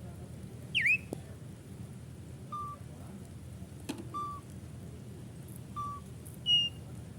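Jalak suren (pied starling) calling. There is a loud swooping whistle about a second in, then short clear whistled notes every second and a half or so, and a higher, louder whistle near the end.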